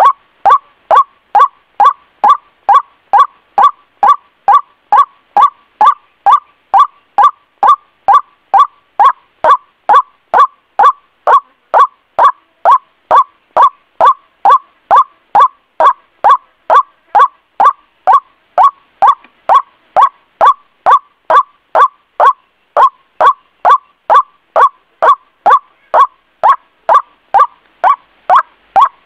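White-breasted waterhen calling: a short, falling call repeated steadily about twice a second.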